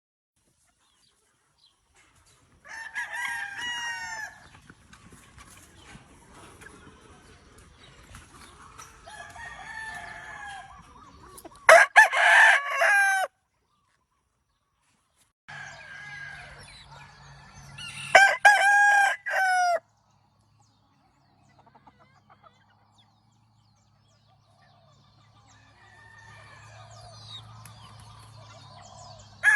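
Roosters crowing, with two loud crows about twelve and eighteen seconds in, and softer calls and clucking between. The sound drops to dead silence a few times.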